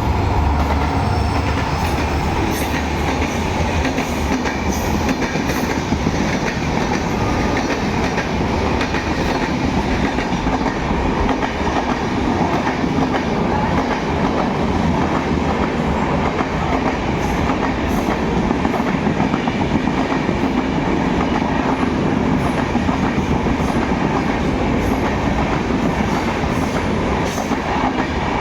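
A passenger train of LHB coaches rolls past at speed in a continuous loud rush, with repeated clicks of wheels over rail joints. For the first few seconds the deep rumble of the WDP4D diesel locomotive is also heard, then it eases as the coaches follow.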